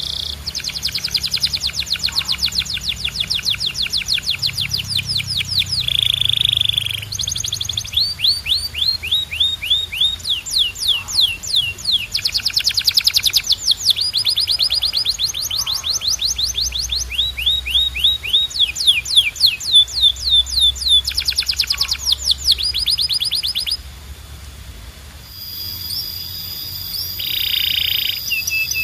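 Canary singing: rapid rolls of the same short note repeated many times, each note sweeping downward, in phrase after phrase with brief held tones between. The song eases off for a moment near the end before resuming.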